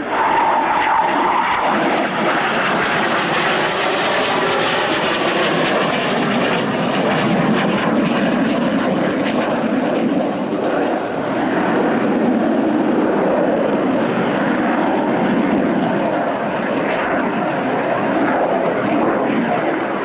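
Aircraft engine noise, loud and steady, from an aircraft flying a display.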